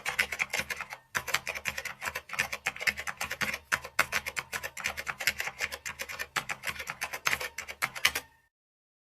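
Rapid keyboard typing: a fast, uneven run of key clicks, several a second, with a short pause about a second in, stopping abruptly near the end.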